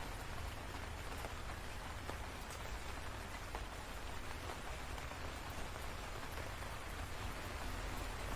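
Steady rainfall, an even hiss with scattered faint drop ticks and a constant low rumble underneath.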